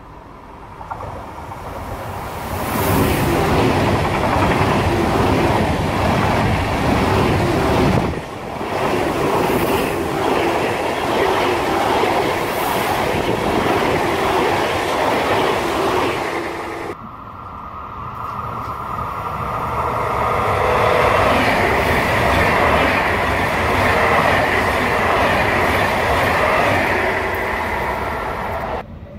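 Frecciarossa 1000 (ETR 400) high-speed electric train passing close at speed: a loud rush of wheels on rail that builds over the first few seconds. About 17 s in, the sound cuts abruptly to another loud train passing.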